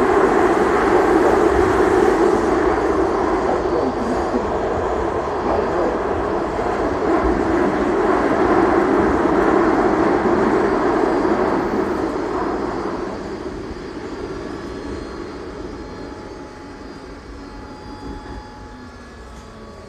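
Baltimore Metro Subway railcar running through the tunnel, heard from inside the car: a loud, steady rumble of wheels and motors. About two-thirds of the way in it fades gradually as the train slows for the next station, leaving a fainter hum with thin whining tones.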